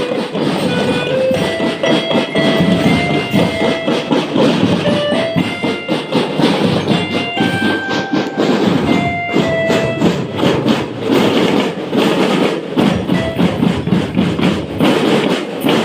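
Marching band playing a melody of held notes over steady, dense drumming.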